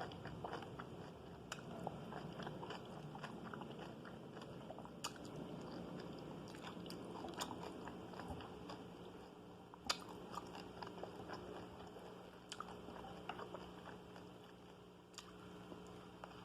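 Faint close-up chewing and mouth sounds of someone eating Korean tofu-and-seafood stew with rice, with many small scattered clicks and a sharper click about five seconds in and another near ten seconds.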